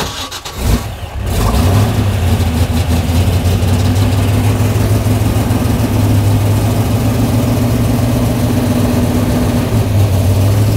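1963 Corvette Grand Sport continuation race car's engine being started: the starter cranks for about a second, then the engine catches and settles into a steady, loud idle.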